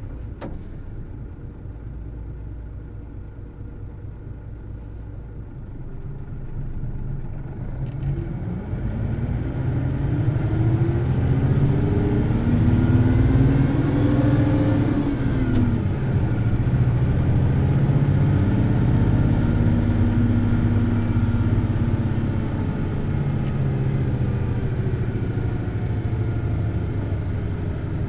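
Hino Blue Ribbon City Hybrid bus's diesel-electric drivetrain: a steady low running sound, then from about eight seconds the engine revs up hard as the bus accelerates, drops back at a gear change around fifteen seconds, and revs up again before easing off. A faint high motor whine rises and falls with it, and a short sharp click comes at the very start.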